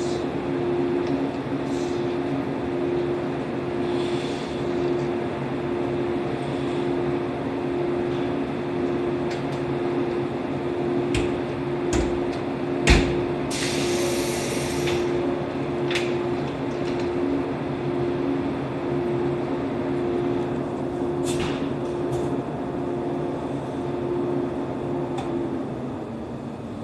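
Stationary 115-series electric train's onboard equipment humming steadily, with a few sharp clicks and a loud clank about halfway through, followed by a short hiss of compressed air during uncoupling work. The hum dies down near the end.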